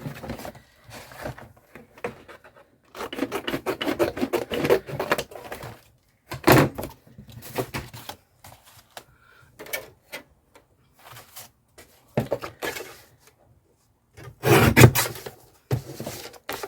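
Cardboard packaging being handled and cut on a tabletop: irregular bursts of rubbing and scraping, with a few sharper knocks, the loudest near the end.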